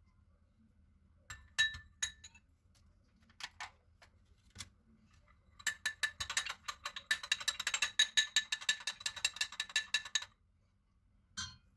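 Utensil clinking against glassware: a few separate ringing clinks, then about four to five seconds of rapid, continuous clinking as of stirring or whisking in a glass bowl, and a last single clink near the end.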